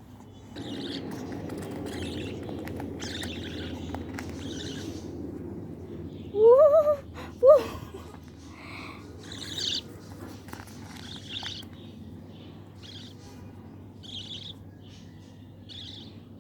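Small pet bird chirping repeatedly in short high notes. About six and a half and seven and a half seconds in there are two loud, short rising squeals.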